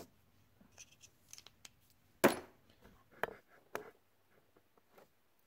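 A few light clicks and taps from handling small metal parts and tools, with one sharp click about two seconds in.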